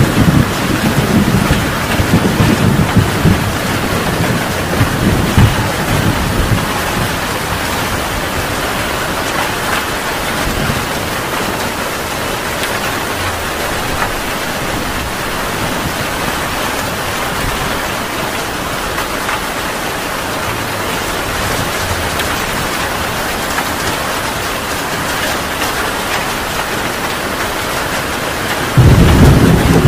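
Heavy rain falling steadily. Thunder rumbles during the first few seconds and fades away, and a loud roll of thunder starts suddenly near the end.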